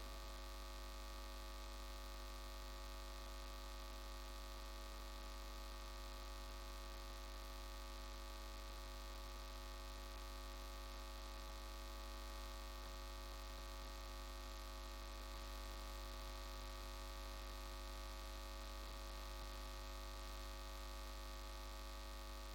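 Steady electrical mains hum with a buzzing stack of overtones, faint and unchanging, with no singing or music.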